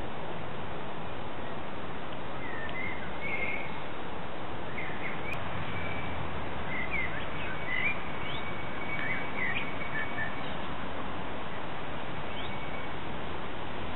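Songbirds chirping in short calls and a few thin held whistles, from about two seconds in until near the end, over a steady hiss of outdoor background noise.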